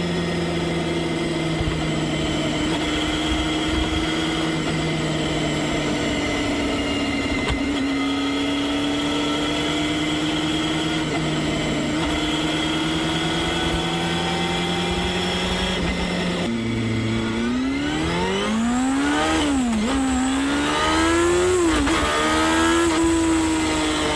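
Honda Hornet 250's four-cylinder engine running at a steady cruising speed. About two-thirds of the way through, the revs climb steeply to a high-pitched wail several times, dropping sharply between each climb, and it grows a little louder.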